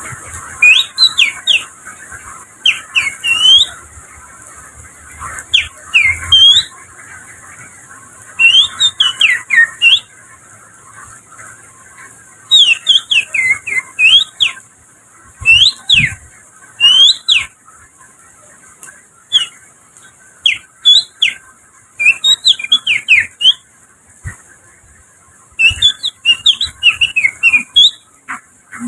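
Finger whistling imitating an Oriental magpie-robin (kacer) song: phrases of quick, sharp whistled notes sliding up and down, broken by pauses of a second or two. A steady hiss sits under the first half and fades out about ten seconds in.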